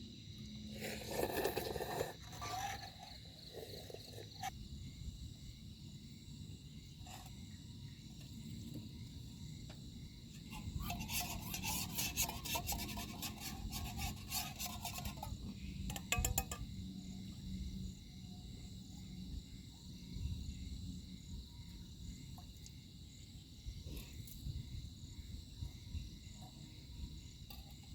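Night insects chirping in a steady, pulsing chorus, with a low background rumble. A brief rustle about two seconds in, and a longer run of rapid clicking and rustling around the middle, stand out as the loudest moments.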